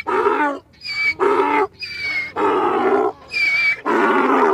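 Donkey braying in a run of hee-haws. Each is a thin, high wheeze on the in-breath followed by a louder, lower honk on the out-breath, about four in a row.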